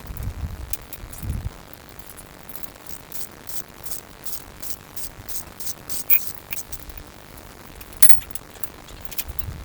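A run of light metallic clicks and clinks, loudest twice near the middle and the end, after a few dull low thumps at the start.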